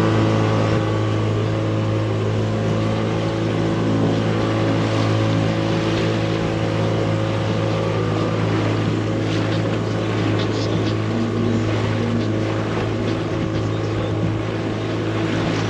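Motorboat engine running at a steady pitch, a constant low hum with wash noise above it.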